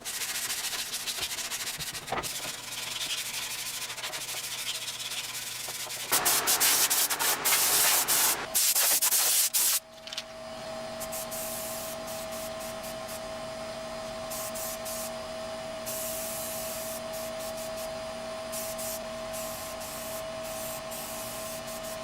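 Sanding the welded steel dash panel: rasping strokes at first, a louder stop-start stretch from about six to ten seconds in, then a steady machine whine with hiss for the rest.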